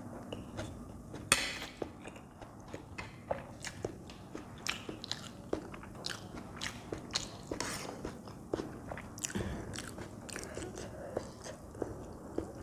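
Wet chewing and mouth smacks of someone eating soft Maggi instant noodles, a run of short, sharp clicks, the loudest about a second and a half in.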